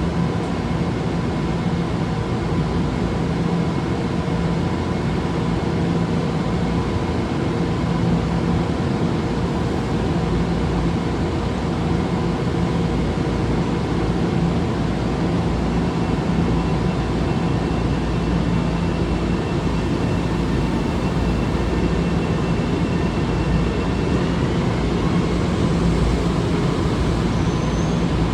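A train running steadily: a continuous rumble with a few steady whining tones that hold the same pitch throughout.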